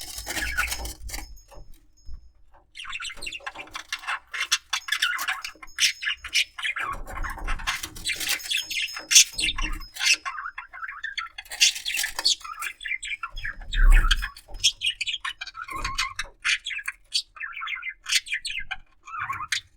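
Budgerigar chattering and warbling: a fast, busy run of chirps, clicks and squeaks, with a short pause about two seconds in. A few low thumps sound among the chatter.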